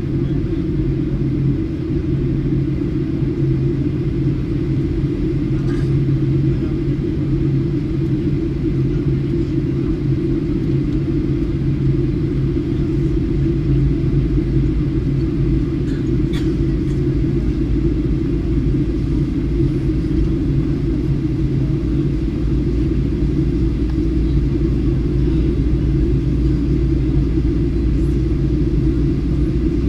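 Steady airliner cabin noise in flight: a constant low rumble of engines and airflow heard from inside the passenger cabin on the descent, with a few faint ticks.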